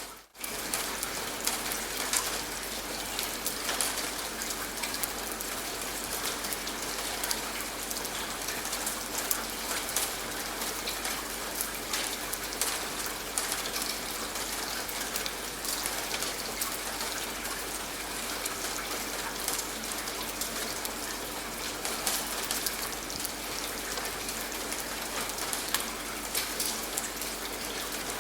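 Steady rain with many distinct drop ticks, briefly cutting out just after the start.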